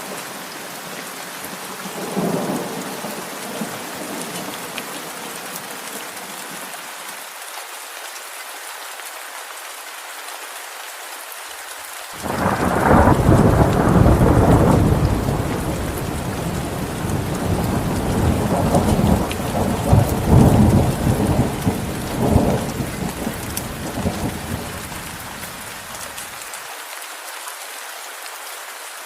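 Steady rain hissing, with a loud roll of thunder that starts suddenly about twelve seconds in and rumbles on in several swells for about fourteen seconds before dying away; a short, softer rumble comes a couple of seconds in.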